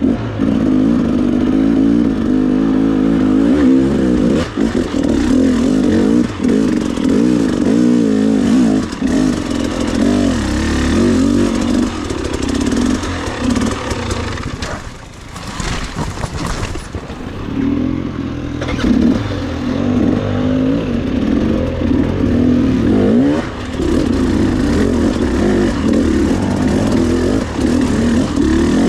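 Off-road trail motorcycle engine revving up and down as it is ridden over rough ground, easing off to a lull about halfway through before picking up again.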